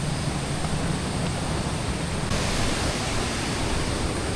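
Steady rushing of a waterfall and the river below it, a continuous roar of falling water that turns hissier suddenly about halfway through.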